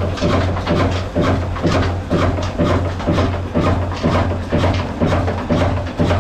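Old black single-cylinder Ruston-type diesel engine running steadily, with an even beat of about three strokes a second over a low steady hum.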